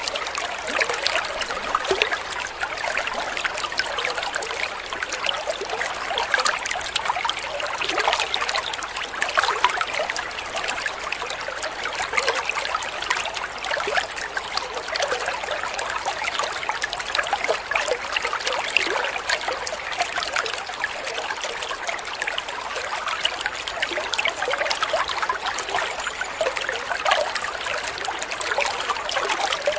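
Water trickling and babbling over stones in a small stream, steady throughout with a constant splashing texture.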